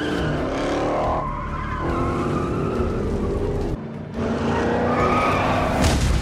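Muscle-car engines revving hard in a car chase, their pitch climbing and dropping, with tires squealing and skidding. The sound changes abruptly twice, at edits.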